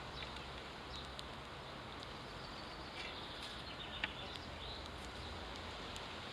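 House sparrows chirping faintly in short calls, most of them about three to four seconds in, over steady background noise.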